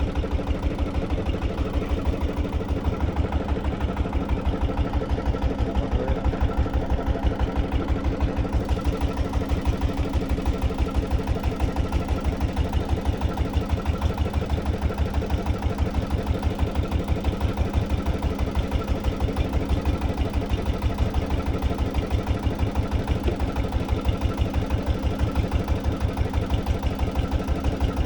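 An engine running steadily at a constant speed, with a rapid, even pulsing beat.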